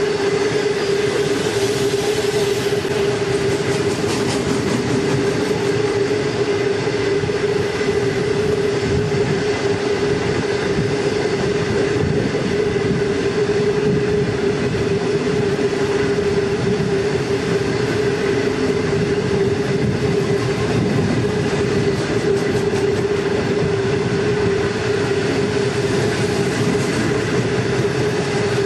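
Long freight train of loaded wagons rolling steadily: continuous wheel-on-rail rumble and rattle with a steady droning hum.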